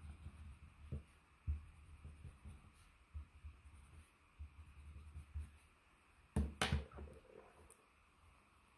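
Faint scratching of a coloured pencil stroking over paper while blending, with irregular soft low knocks and a pair of louder clicks about six and a half seconds in.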